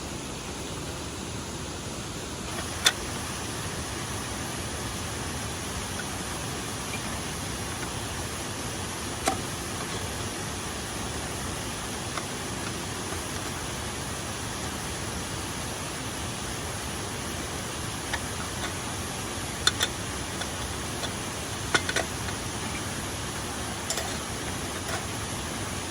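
Steady rushing of a waterfall, with a few short sharp knocks or clicks on top: the loudest about three seconds in, and a small cluster about twenty seconds in.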